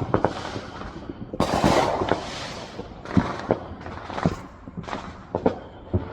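Fireworks and firecrackers going off all around: an irregular string of sharp bangs and pops, with a dense crackling burst about a second and a half in.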